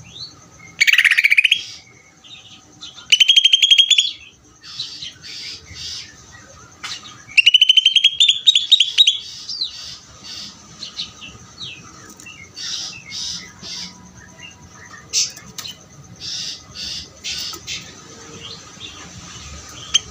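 Green leafbird (cucak ijo) singing continuously: three loud, rapid rattling trills about a second, three seconds and seven and a half seconds in, with short high chirps and whistles in between.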